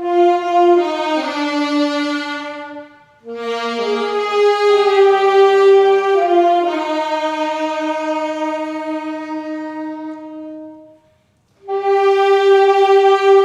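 Instrumental music: a slow melody of long held notes with a reedy, wind-instrument-like sound over softer lower accompaniment, played in phrases with short breaks about three and eleven seconds in.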